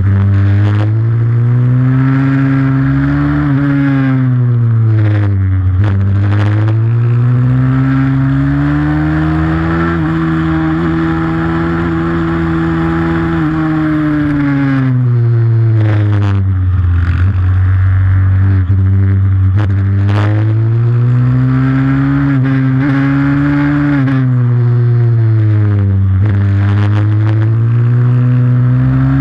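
Pit bike's single-cylinder four-stroke engine at race pace, its pitch climbing as it accelerates and dropping as it backs off, over and over, with one longer high-revving stretch about halfway through.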